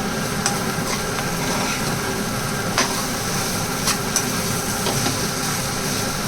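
Food frying in a pan, with a spatula clicking against the pan a few times over the steady sizzle.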